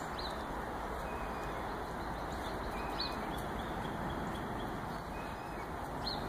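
Steady outdoor background hiss with three faint, short, high bird chirps about three seconds apart.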